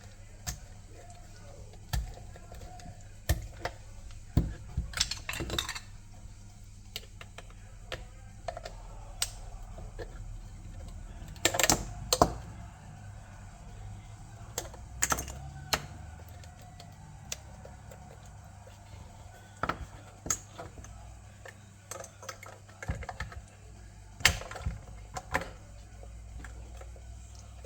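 Irregular small hard clicks and clacks of plastic Lego bricks being handled and snapped together, coming in scattered bunches with a few louder clacks.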